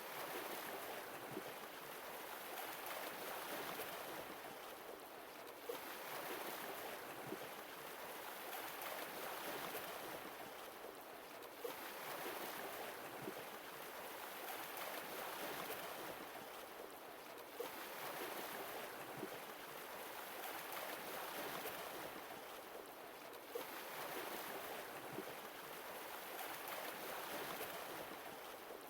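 Sea waves washing in and drawing back, each swell rising and falling about every six seconds.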